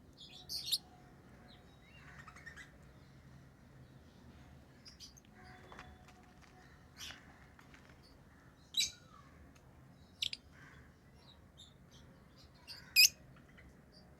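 Pet lovebirds chirping: a few sharp, high-pitched chirps spaced a few seconds apart, the loudest near the end, with fainter twittering between them.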